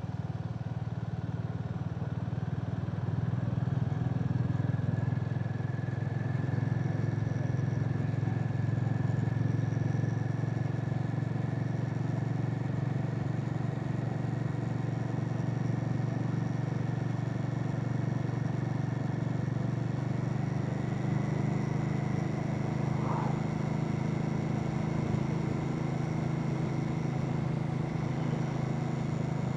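Harley-Davidson X440's single-cylinder engine running steadily while the motorcycle is ridden at cruising speed, getting a little louder about three seconds in.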